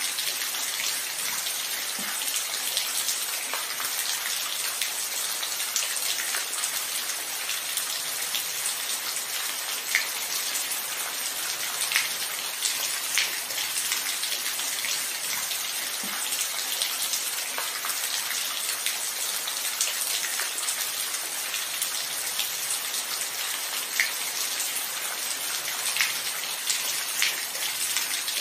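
Steady rain falling, a constant hiss with individual heavier drops tapping out distinctly every few seconds.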